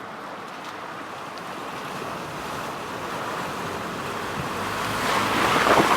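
Rushing, splashing water from an off-road vehicle driving through a river ford. It builds steadily and is loudest near the end.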